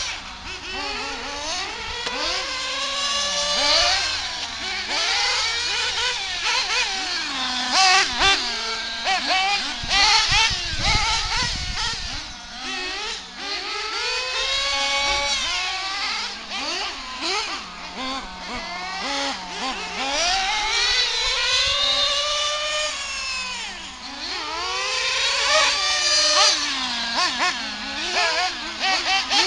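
Small nitro glow engines of RC buggies revving high and falling back again and again as the cars accelerate, slow and pass, at times two engines at once.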